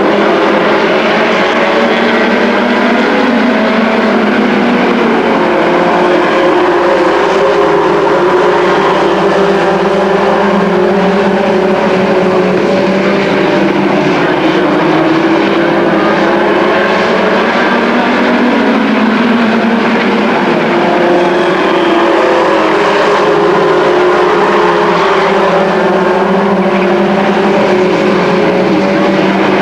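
A field of race trucks' engines running hard around the track, loud and continuous, with several engine notes at once rising and falling as the trucks go by.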